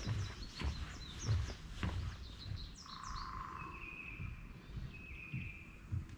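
Songbirds singing in woodland: quick high chirps, then from about halfway in a short phrase repeated roughly every second and a half. Under them, soft irregular thuds of footsteps.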